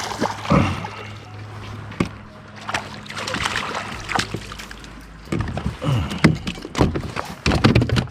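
Irregular knocks and clicks from gear being handled in a kayak, coming in short clusters that grow busier in the second half.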